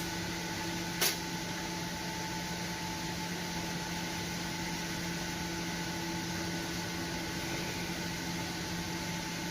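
Steady mechanical hum with a few constant tones, and a single sharp click about a second in.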